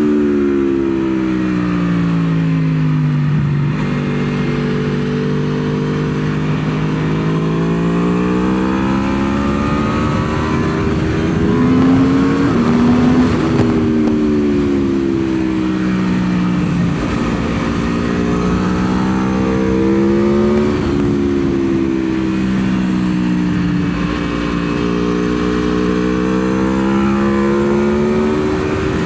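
Aprilia Tuono V4 motorcycle's V4 engine heard on board during a lap of the track. The engine note falls and climbs again several times as the rider slows for corners and accelerates out of them, over a steady rush of wind noise.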